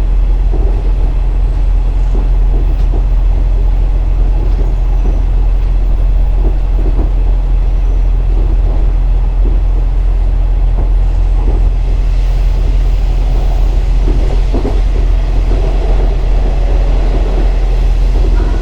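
A KiHa 47 diesel railcar under way, heard from inside the car: a steady, loud low drone from the diesel engine mixed with wheel and rail noise and scattered faint knocks.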